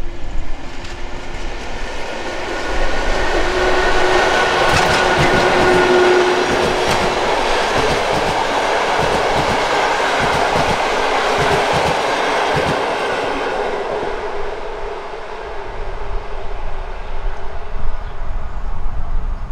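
Electric train passing over a level crossing, its wheels clattering over the rails. It builds over a couple of seconds, is loudest through the middle, and fades away after about fifteen seconds.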